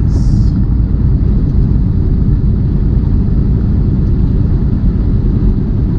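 Steady low rumble of a semi truck's engine and tyre noise heard from inside the cab while it drives at highway speed, with a brief hiss at the very start.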